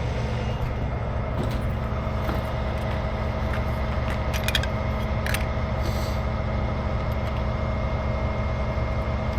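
Heavy tow truck's diesel engine idling steadily, with a few light clicks about halfway through.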